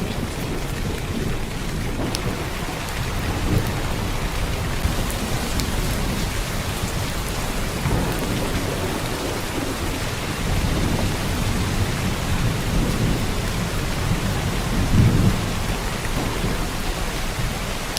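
Heavy downpour of rain, a steady hiss, with low rumbles that swell and fade several times, the strongest about fifteen seconds in.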